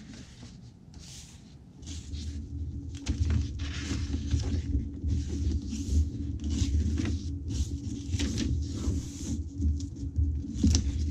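Paper rustling as the pages, tags and pocket inserts of a handmade junk journal are handled and turned: a run of short, irregular scratchy swishes.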